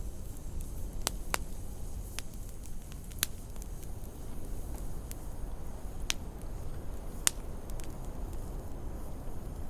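Wood fire crackling in a fireplace: irregular sharp pops and snaps, some a second or more apart, over a steady low rumble of wind.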